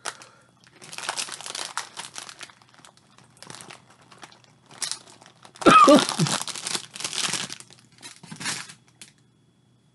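Crackly crunching and crinkling in several bursts: a potato chip being chewed and a snack bag being handled. About six seconds in, at the loudest moment, a short throaty vocal sound mixes in.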